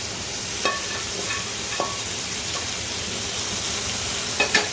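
Tomato puree and browned onions sizzling in hot oil in a pan, with a spoon knocking and scraping against the pan a few times as they are stirred, loudest twice near the end.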